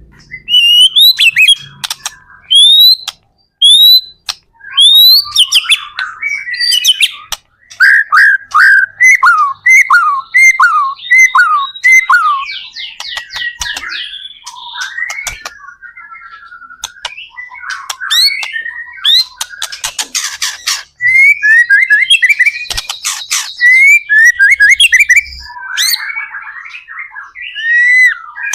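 White-rumped shama singing a loud, varied song of whistled notes. Rising whistles give way to a run of about eight quick falling notes, then rapid trills and short harsh, rasping phrases.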